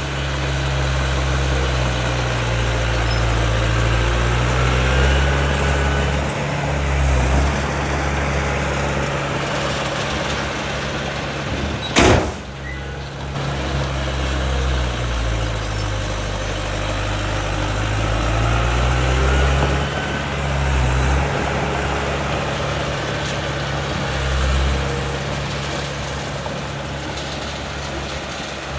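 Heavy diesel engine of earthmoving machinery running under load, its pitch rising and falling slowly as it works, with one sharp clank a little under halfway through.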